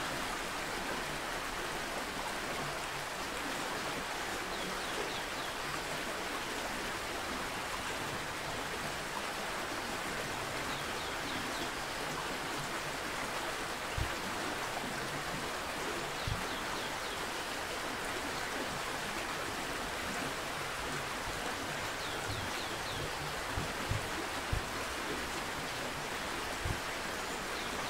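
Stream water running with a steady rush, and faint high bird chirps every few seconds. A few soft low knocks sound now and then.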